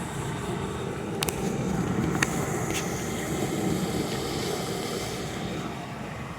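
A household appliance running with a steady mechanical whir, with three sharp clicks in the first three seconds.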